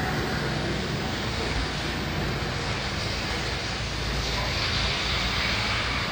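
Steady road noise from a moving motorbike in city traffic: a continuous rushing hiss with engine drone underneath.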